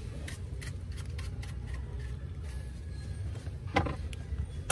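Scattered light clicks of hand tools cutting and handling wiring under a van's steering column, over a steady low hum, with a sharper click near the end.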